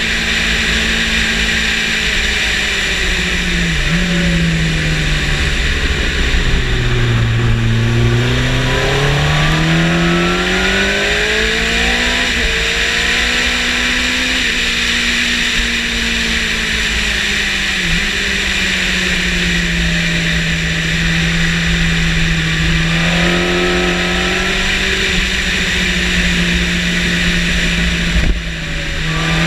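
Yamaha sport motorcycle engine at speed, heard onboard under a heavy rush of wind noise. The engine note falls about four to eight seconds in, climbs back up, holds fairly steady for a long stretch, then dips briefly near the end.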